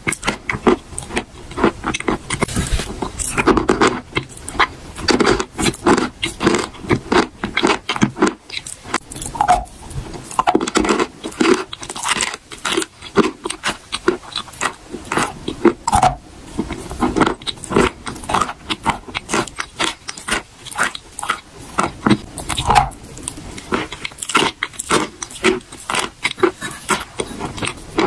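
Close-miked chewing of eating chalk: a dense, irregular run of crunches and clicks mixed with wet, pasty mouth sounds as the chalk turns to paste.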